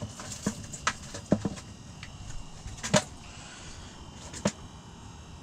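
A freshly caught trout thrashing on the ice, about six sharp knocks and slaps over four seconds. The loudest come about a second and a half and three seconds in.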